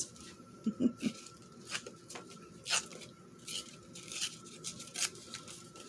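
Paper scraps rustling and being handled, with a few sharp light taps and clicks about once a second. A faint steady high tone runs underneath.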